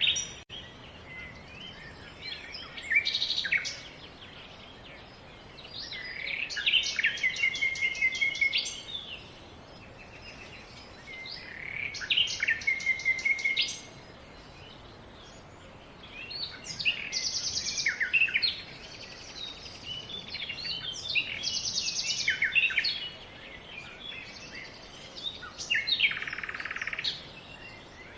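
Songbirds singing in repeated phrases of chirps, trills and high buzzy notes, each phrase a second or three long, with pauses of a few seconds between.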